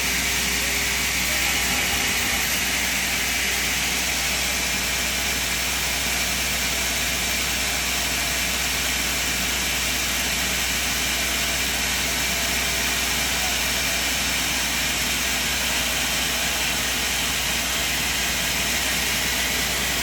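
Sawmill machine running steadily, an even noisy drone that holds at one level.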